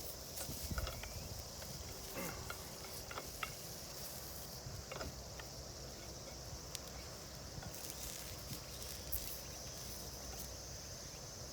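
Insects chirring steadily in high pitch from the surrounding grass, with low wind rumble on the microphone and a few light clicks scattered through.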